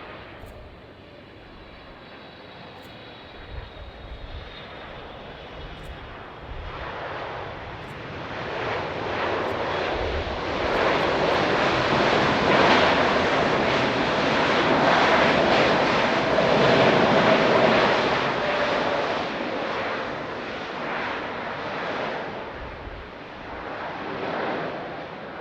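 Jet airliner passing by, its engine noise rising to a loud peak about halfway through and then fading away.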